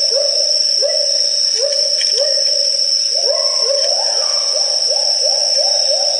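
Great argus calling: a long series of short, rising whistled notes that comes faster and more evenly in the last couple of seconds.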